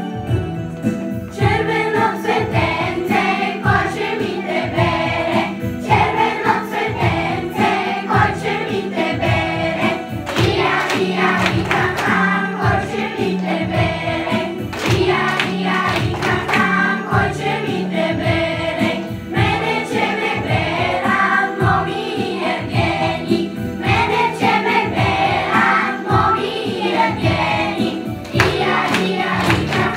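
A group of children singing a song together over backing music with a steady beat; the voices come in about a second and a half in.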